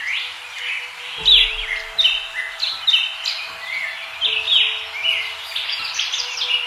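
Many small birds chirping at once, short overlapping chirps in quick succession.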